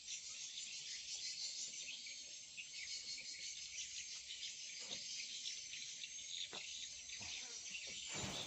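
Dense, steady high-pitched chirping, insect-like, with a short clatter near the end.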